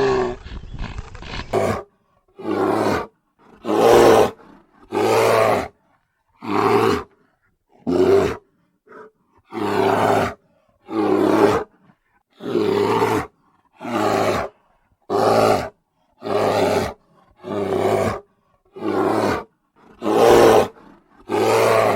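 A large animal calling over and over: about fifteen evenly spaced calls, each under a second long, roughly one every second and a half, beginning about two seconds in.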